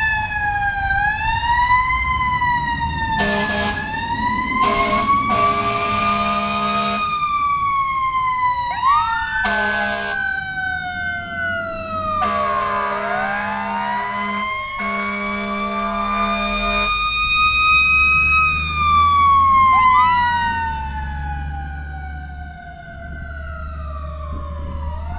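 Fire engine sirens, one of them a Federal Q mechanical siren, wind up and slowly fall away in long wails, with a second siren sweep rising and levelling off over them. Several long air-horn blasts sound over the sirens in the first two-thirds. A diesel engine rumble comes up in the later part.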